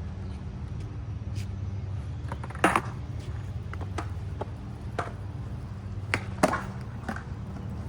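Skateboard wheels rolling on smooth flat ground with a steady low hum, broken by several sharp clacks of the board, two of them loud.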